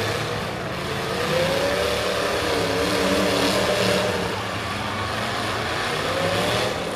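Demolition derby cars' engines running hard in the arena, one engine's pitch rising about a second in, dropping back around four seconds and rising again near the end, over the steady din of the other engines.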